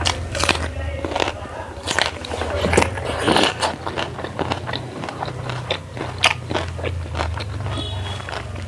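Close-miked eating sounds from a meal of rice, dal, fried beans and buffalo meat: irregular bites, crunches and chewing clicks over a steady low hum.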